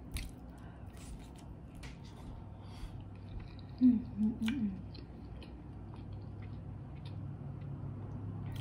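Close-miked eating sounds: chewing with scattered wet mouth clicks, and a short pitched "mm" of enjoyment about four seconds in, over a steady low hum.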